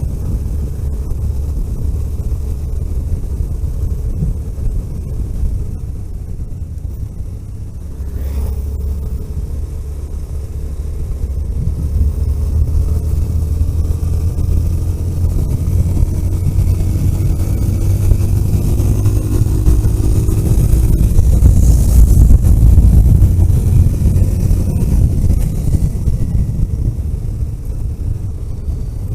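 Car driving on a road: steady low engine and road rumble, the engine note rising as it gathers speed through the middle of the stretch, loudest a little past the middle, then easing off.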